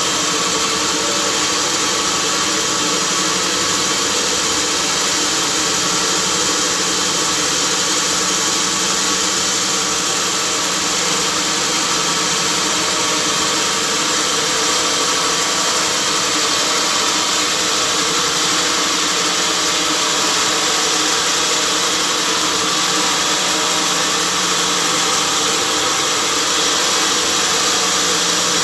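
Large sawmill machinery running, a steady mechanical drone with a hiss that does not change in level.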